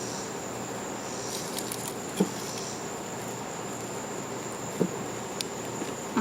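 Insect chorus: a steady high-pitched trill, with a second, lower chirring that swells and fades every second or so. A few soft knocks stand out about two, five and six seconds in.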